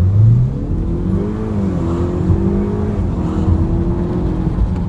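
2019 Honda Accord Sport's 2.0-litre turbocharged four-cylinder with the muffler deleted, accelerating: its deep exhaust tone climbs in pitch at the start, rises and falls through a shift, then holds steady under load.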